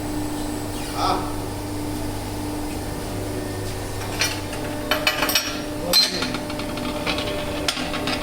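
Machine-shop machinery running with a steady hum, with scattered metallic clinks and knocks, most of them between about four and eight seconds in.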